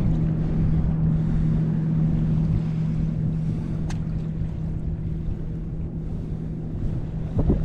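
A boat's motor running steadily with an even hum, fading about seven seconds in, with wind rumbling on the microphone.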